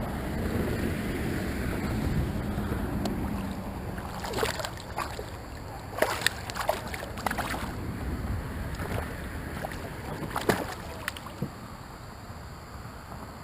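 Water splashing and knocking around a kayak, with a few sharp splashes and knocks between about four and eleven seconds in, over a low wind rumble on the microphone.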